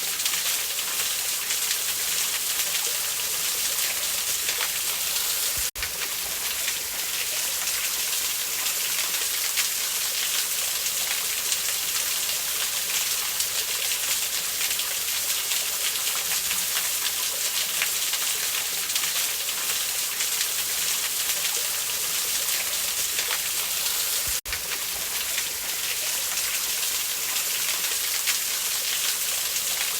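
Steady rushing of a waterfall, added as a soundtrack, with two brief dropouts in the sound, about six seconds in and again near the end.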